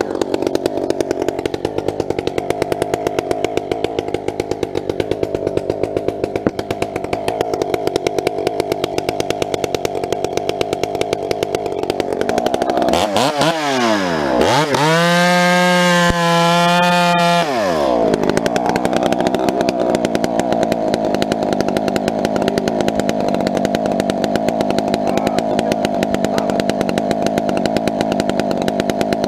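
Two-stroke chainsaw running at a steady lower speed, then about halfway through revved up to a high steady pitch for about four seconds before dropping back.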